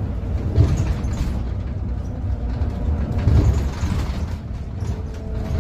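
Bus engine running with a heavy low rumble that swells twice, about half a second in and again a little after three seconds. Its engine note is one the uploader finds strange.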